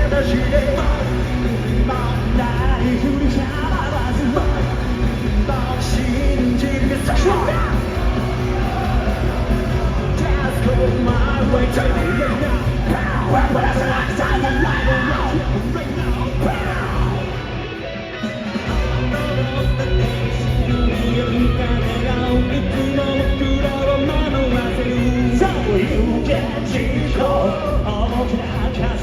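Live rock band playing loudly in a large hall, with singers and shouting voices over heavy drums and guitars; the music briefly drops back about eighteen seconds in, then comes back in full.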